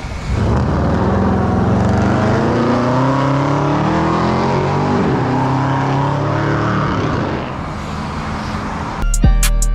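2017 Infiniti Q50 3.0t's twin-turbo V6 engine revving: the pitch climbs over a few seconds, dips about halfway through, holds, then eases off near the end.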